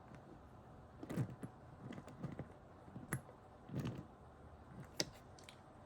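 Small scale-model toy tractor being handled and set down on a hard surface: a scattering of light clicks and soft knocks, the sharpest click a little after five seconds in.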